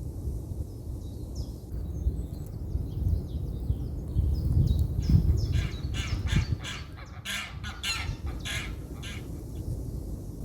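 Birds calling: a run of short calls starting about two seconds in that grows into a dense, rapid chorus towards the middle, then thins out. Under them is a steady low rumble.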